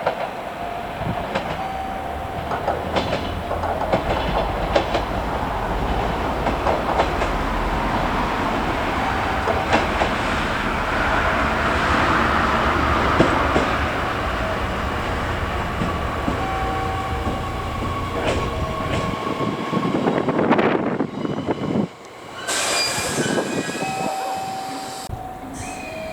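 Electric commuter train running on the rails, a steady running noise with the wheels clattering over rail joints and a few short high tones. About three quarters of the way through, the sound drops out abruptly and then resumes.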